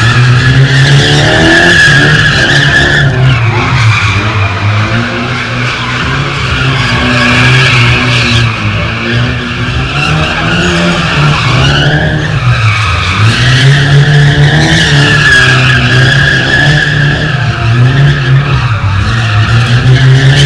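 Car tyres squealing without a break while the engine revs up and down over and over, as a car is drifted. The engine pitch dips once about twelve seconds in and then climbs again.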